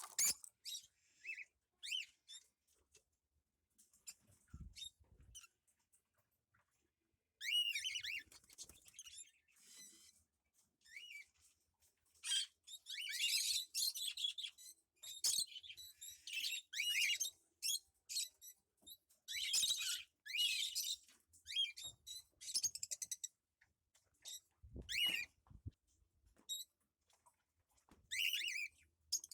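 Cockatiel chirping and whistling in short, high calls, with denser bursts of chatter in the middle and later part. Two brief low thumps are also heard.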